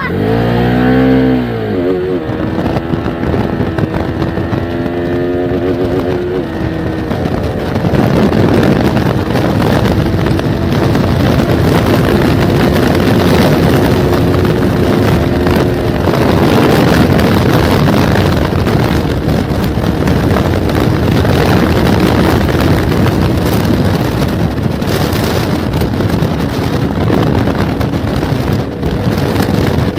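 Motorcycle engine revving up and down in the first couple of seconds, then running steadily under way. From about seven seconds in, wind rushing over the microphone mostly covers the engine.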